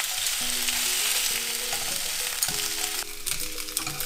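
Pork belly slices sizzling as they fry in their own rendered fat in a pan. About three seconds in, the sizzle drops sharply and a few clicks follow.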